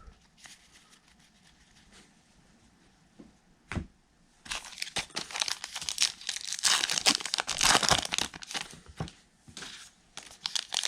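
A baseball card pack's wrapper being torn open and crinkled in the hands, after a single knock about four seconds in; the crackling is loudest in the second half and starts again near the end.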